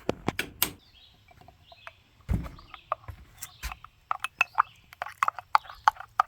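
Scattered sharp clicks and light knocks, with one heavier thump a little past two seconds in and a quick run of small clinks near the end, as lead-acid battery terminals and tools are handled during cleaning.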